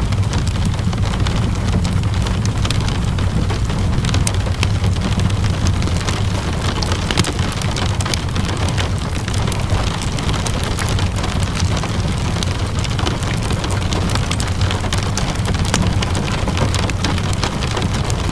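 Steady rainfall mixed with a wood fire crackling in a fireplace: an even hiss of rain with scattered sharp pops and crackles, over a steady low rumble.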